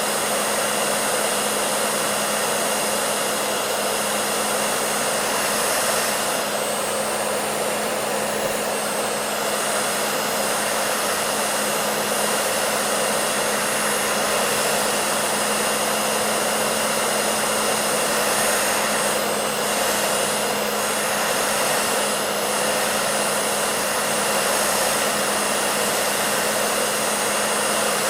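Hair dryer running steadily: an even rush of blown air with a steady low hum underneath, unchanging in level.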